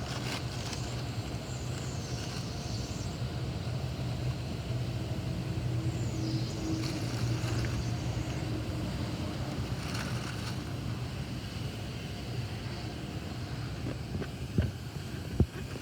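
Steady low machine hum with a noisy rushing haze over it, and a few sharp knocks near the end.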